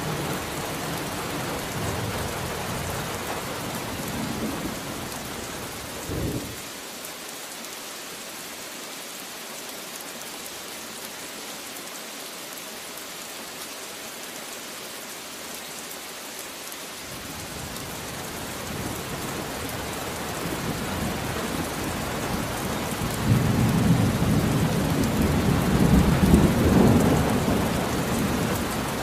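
Steady rain with rolling thunder. The rumble dies away about six seconds in, leaving only the rain, then a loud roll of thunder builds through the second half.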